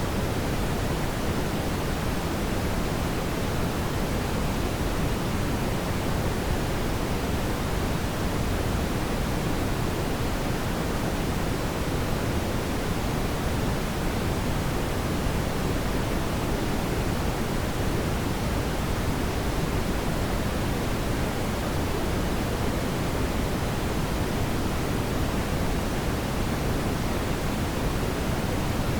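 Steady brown noise: an even, deep hiss, strongest in the low end, with no changes or events.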